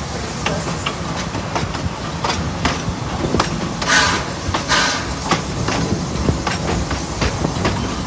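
Steam locomotive pulling an amusement-park train, wheels rumbling and clicking over the rail joints, with two loud hissing bursts of steam near the middle.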